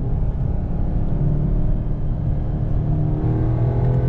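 2021 Audi S3 sedan's 2.0-litre turbocharged four-cylinder engine and exhaust pulling under acceleration, heard inside the well-insulated cabin over steady road rumble. The engine note rises gradually, climbing more clearly near the end.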